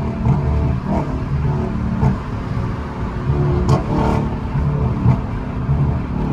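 Straight-piped Dodge Charger Scat Pack's 392 HEMI V8 running loud and hard at freeway speed, its exhaust drone holding a fairly steady pitch with small rises and dips.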